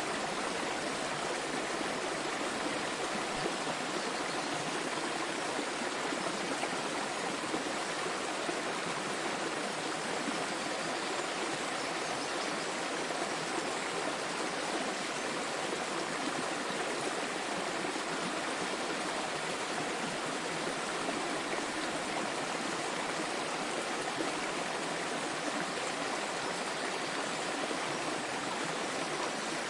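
Small waterfall with water splashing and flowing in a steady, unbroken rush.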